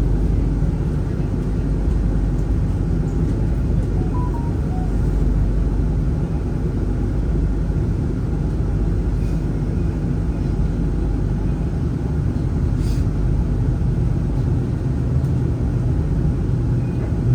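Steady low rumble of a tram running, with no breaks.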